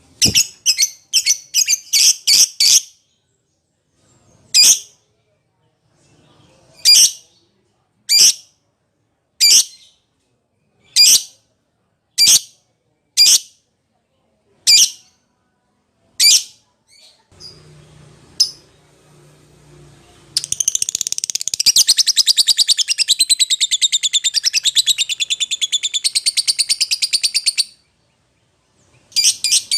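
Lovebird calling: a quick run of sharp, shrill calls, then single calls about a second or so apart, then a long, fast chattering trill lasting about seven seconds, and a few more calls near the end. These are lovebird calls to other birds of its kind.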